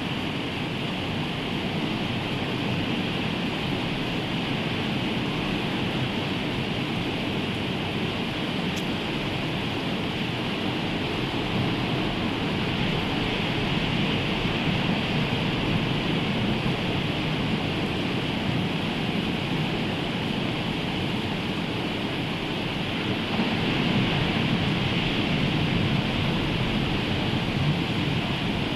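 Rough sea surf washing and breaking in a continuous roar, mixed with rain, swelling a little louder near the end.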